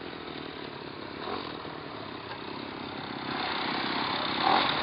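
Small engine of a motorised bicycle running, getting louder about three seconds in.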